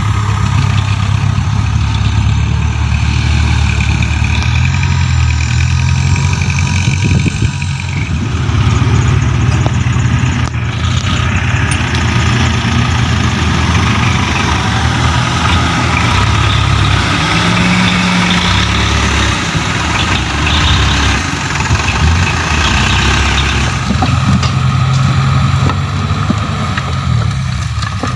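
Heavy dump truck diesel engines running steadily, a loud, deep rumble.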